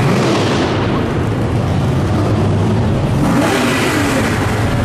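A show car's engine running loud as the car drives out, revving up and easing off near the start and again about three seconds in.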